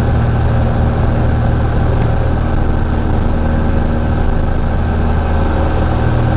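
A Cessna 172's freshly overhauled piston engine and propeller running steadily, a loud, even low drone.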